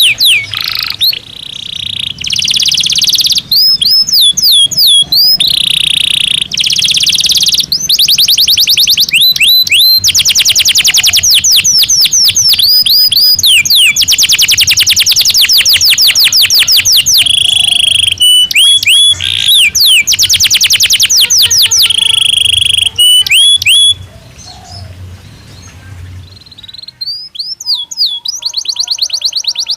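Domestic canary singing: long, fast trills of repeated notes and quick sweeping whistles. The song drops away briefly about three-quarters of the way through, then starts up again.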